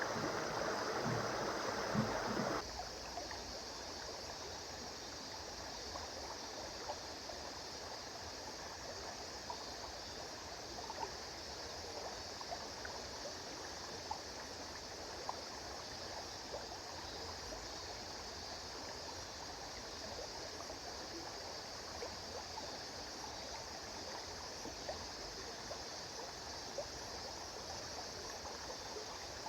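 A river flowing, a steady rush of water. About two and a half seconds in it drops abruptly to a quieter, lighter flow with small scattered splashes.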